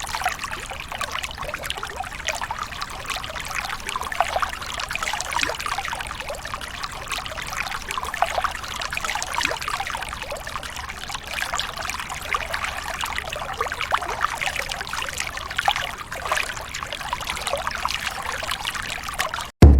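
Water trickling and splashing steadily, with no pitched sound in it, cutting off suddenly just before the end.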